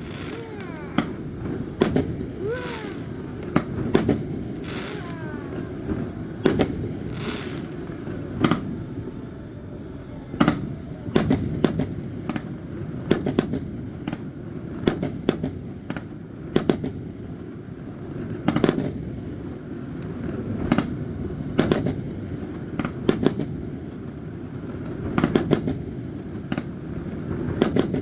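Fireworks display: a long run of loud bangs from bursting aerial shells at irregular intervals, some in quick clusters, over a continuous crackling rumble. A few shells whistle as they go up, near the start.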